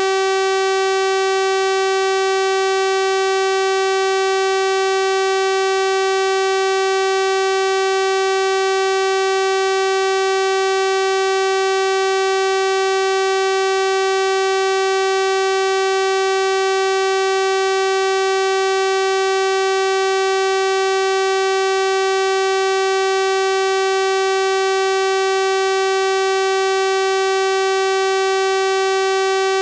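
A synthesized 384 Hz sawtooth-wave tone held perfectly steady: a bright, buzzy single pitch with a full stack of evenly spaced overtones, at constant loudness.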